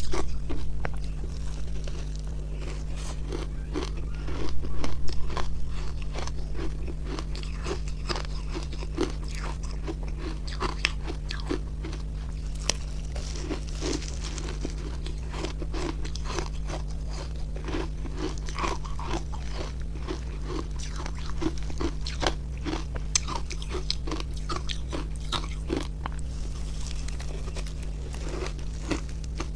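Close-up crunching and chewing of refrozen ice made with milk and matcha powder: a dense run of sharp cracks, loudest in a burst about four to five seconds in.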